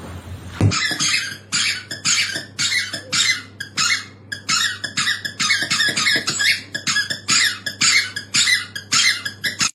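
Rhythmic squeaking: a short, sharp squeak repeated about twice a second, starting just under a second in and continuing without a break.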